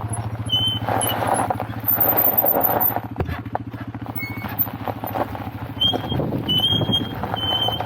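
Motorcycle engine idling steadily with an even rapid pulse, mixed with patches of crunching and a few short high squeaks.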